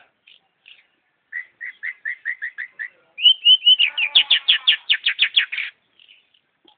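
Long-tailed shrike singing: faint chips, then a run of about eight short quick notes, then a louder, faster rattling series of about a dozen notes that stops well before the end.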